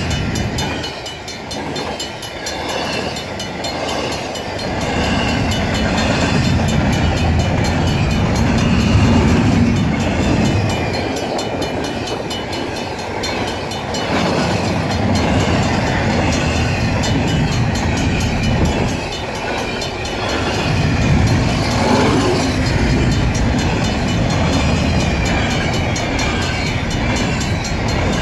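A freight train of double-stack container cars rolls steadily past at a grade crossing: steel wheels on rail make a continuous rumble with clickety-clack, swelling and easing as the cars go by.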